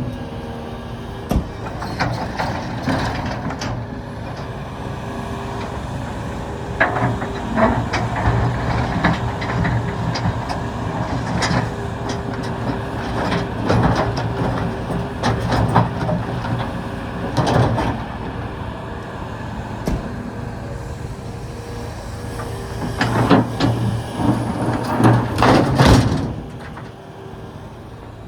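Volvo EC380EL excavator's diesel engine running steadily under load, with repeated clanks and knocks of heavy rocks against the steel bucket and truck bed. The engine noise drops away near the end.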